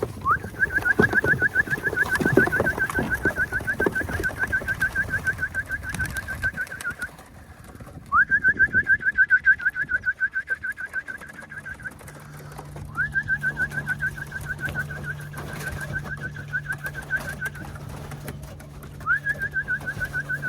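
A trilling whistle sounded in four bouts, each a quick upward slide into a fast warble at one steady pitch, used to call racing pigeons back into the loft to trap.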